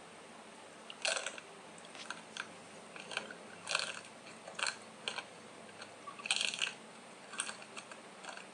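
Crisp crunches of a Magnum ice cream bar's chocolate coating being bitten and chewed, about one a second; the loudest comes about six seconds in.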